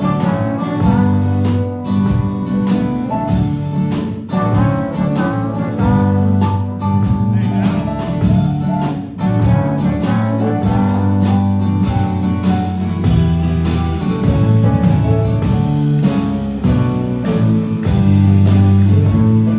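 Live band playing an instrumental break, with guitar to the fore over bass and drums keeping a steady beat.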